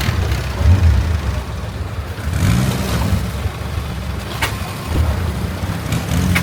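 Longtail boat engine running steadily with a deep low rumble; a short sharp click about four and a half seconds in.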